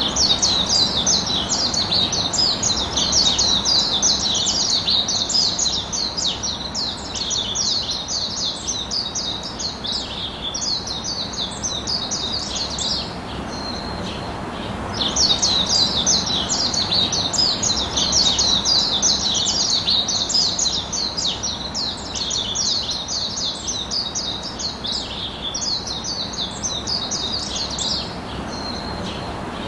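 Birds chirping: a dense run of fast, high chirps that goes on in long bouts, breaking off briefly about halfway through and again near the end.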